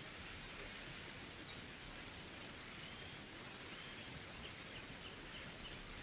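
Steady low background hiss with small birds chirping faintly, in short scattered calls.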